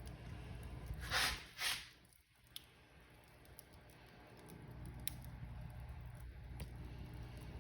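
Wood fire in a fireplace crackling: a low steady rumble with scattered sharp pops, and two louder crackling bursts a little over a second in. After them the rumble drops away briefly and slowly builds back.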